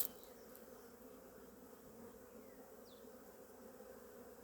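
Honeybees of an opened, crowded hive buzzing in a steady low hum.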